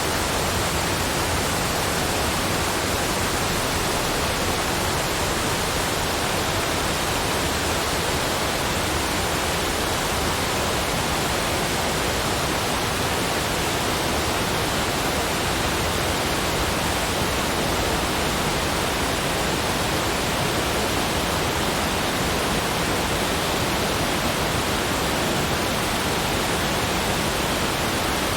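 Steady, even rushing noise spread across low and high pitches, unchanging and without breaks, drips or tones.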